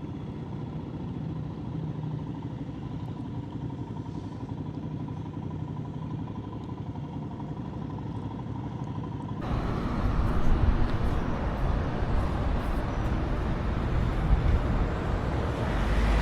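Motorcycle engines running at a bike meet, a steady low hum that abruptly turns louder and rougher about nine seconds in.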